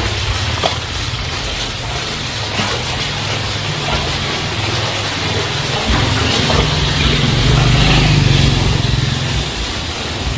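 Heavy rain falling steadily, with the low rumble of a motor vehicle's engine underneath that grows louder for a few seconds past the middle.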